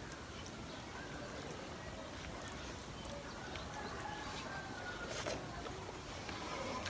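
Close-up eating sounds: chewing, with scattered wet smacks and clicks, a sharper one about five seconds in.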